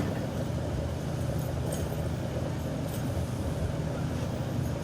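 Steady low rumble of a vehicle engine idling, with a few faint light clicks over it.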